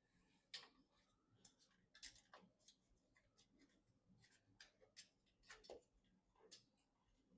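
Irregular small clicks and taps of PC parts and packaging being handled during assembly, about fifteen sharp ticks over several seconds, the loudest about half a second in.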